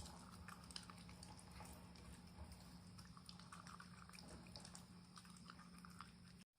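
Shiba Inu eating chicken-cartilage collagen jelly from a bowl: faint wet chewing and licking clicks over a steady low room hum, cut off abruptly near the end.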